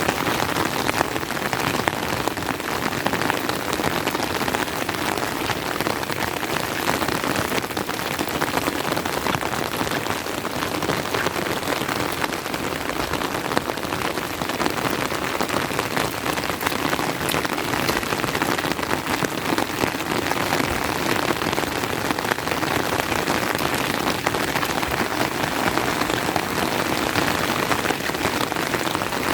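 Steady, heavy rain falling, a dense even patter of drops that holds without a break.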